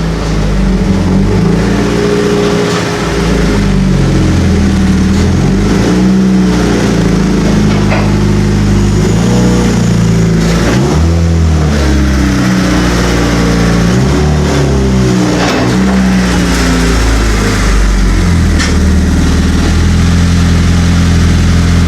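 Turbocharged Honda Civic engine running under way, its pitch climbing and dropping again and again as it revs through the gears.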